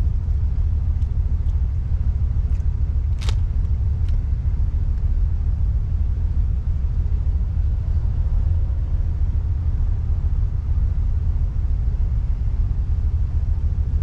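Steady low rumble of a vehicle heard from inside the cab, typical of a truck's engine and road noise while driving, with a single sharp click about three seconds in.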